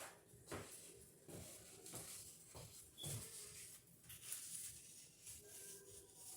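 Faint, irregular soft taps and rustles of kitchen handling, food and utensils being moved about during cooking.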